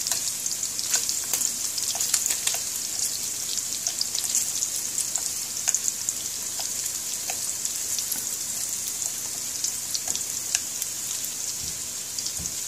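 SPAM and sliced shallots frying in oil in a pan, a steady sizzle with scattered crackling pops, as the browned pieces are turned over with chopsticks to brown the other side.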